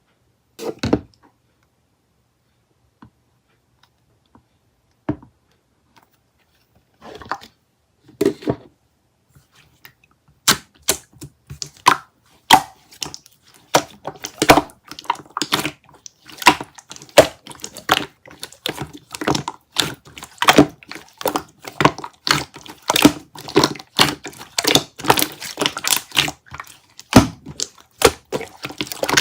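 Yogurt-style slime being pressed and squished by hand, making sticky clicks and pops. A few scattered pops at first, then a fast, steady run of them from about ten seconds in.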